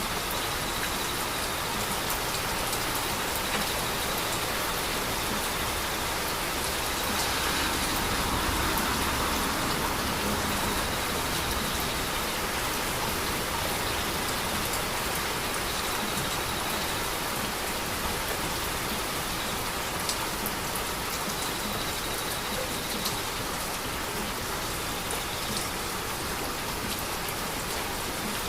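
Heavy rain falling steadily, with scattered sharp drop ticks. It swells slightly about seven seconds in.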